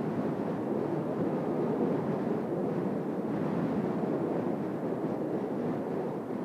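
Steady jet roar from Blue Impulse Kawasaki T-4 jet trainers flying an aerobatic manoeuvre, with gusty wind on the microphone.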